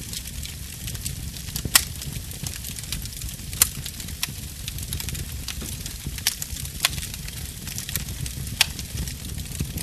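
Wood fire burning: a low steady rumble of flame under constant small crackles, with a few sharp pops of burning wood, the loudest about two seconds in and again near four seconds.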